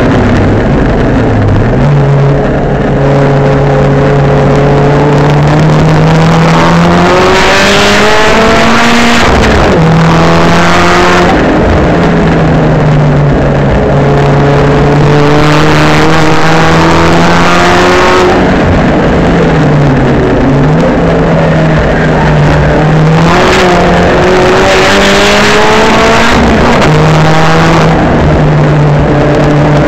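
Maptun-tuned Saab 9-3 Sport race car's B207 turbocharged four-cylinder engine running hard on track. Its pitch climbs through the revs and drops back at each gear change, several times over, with short dips where the throttle is lifted or the car shifts down.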